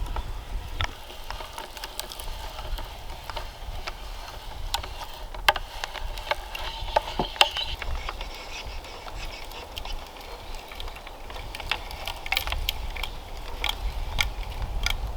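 Irregular sharp clicks and light knocks, scattered unevenly, with low wind rumble on the microphone at the start and again near the end.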